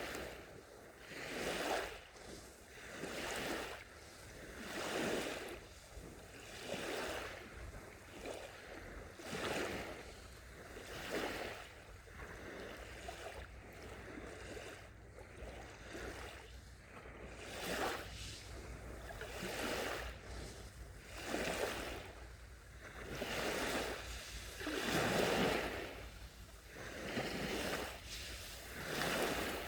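Small sea waves washing onto a beach one after another, each swelling and falling away about every two seconds.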